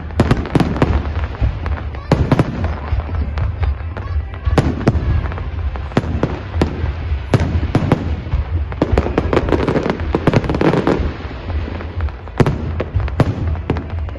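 Fireworks display: shells bursting in irregular quick succession, often several bangs a second, over a steady low rumble, with a denser stretch of crackling between about nine and eleven seconds in.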